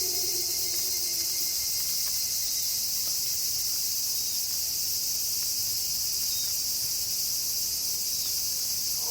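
Steady high chorus of night insects chirping without a break. In the first second and a half a wolf howl slides down in pitch and fades out.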